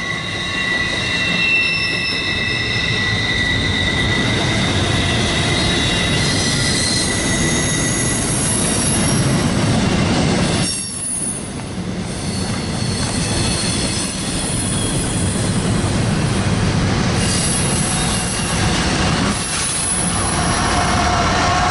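A CSX freight train rolling past, its wheels squealing in high, steady tones over a continuous rumble of wheels on rail. The squeal is strongest in the first few seconds and returns near the end.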